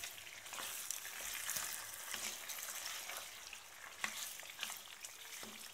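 Chicken frying with freshly added tomato paste while it is stirred: a steady high sizzle with a few short knocks of the spoon against the pan.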